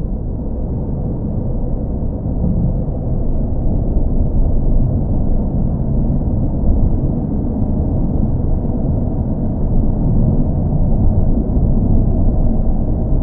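Steady, muffled low rumble of a car engine, used as a continuous sleep sound; it holds an even level throughout with a faint hum in it and no sharp or high sounds.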